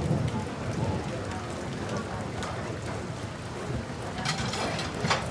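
Steady rain falling, with a low rumble dying away in the first second. Near the end come a couple of sharp clicks, the last one the loudest.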